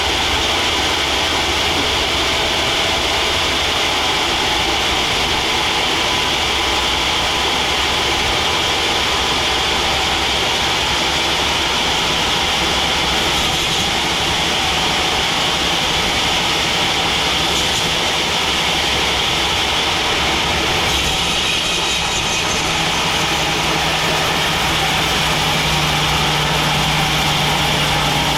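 Sawmill machinery running steadily, a continuous loud mechanical noise with a hissing band high up. A low steady hum joins about three quarters of the way through.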